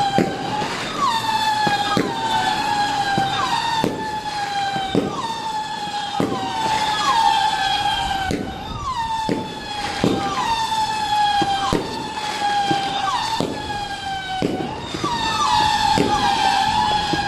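Fireworks cracking and popping at irregular intervals under a loud siren-like wail. The wail jumps up briefly and then slides slowly down, repeating about once a second.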